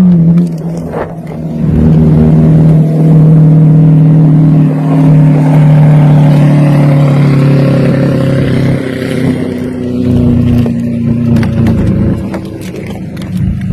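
Supercar engine running at a steady, elevated cold-start idle, the idle dropping in steps about two-thirds of the way through and again near the end as it settles.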